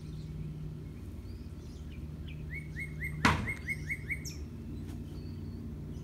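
A small bird chirping a quick run of about eight short, high notes in the middle, with one sharp click among them, over a steady low hum.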